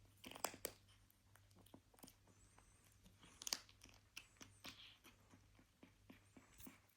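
A kitten chewing and crunching food, quiet irregular crunches and clicks with a couple of louder bites.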